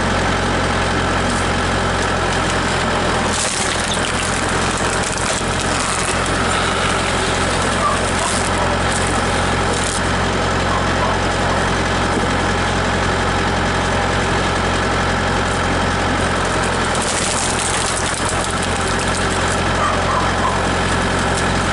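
Tractor engine running steadily to drive a screw cone log splitter, with a few short harsh noises over it from the wood being split.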